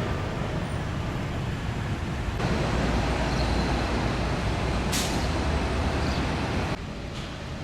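Road traffic noise: a steady rumble and hiss of passing vehicles, with one short sharp hiss about five seconds in. The sound steps up suddenly about two seconds in and drops again near the end.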